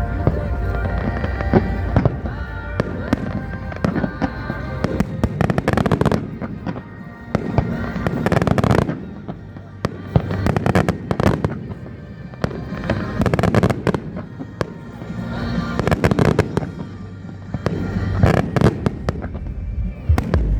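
Fireworks display: fast runs of bangs and crackling that come in loud clusters every couple of seconds, over music.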